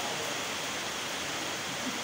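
Rain falling steadily, an even wash of noise with no distinct drops or gusts standing out.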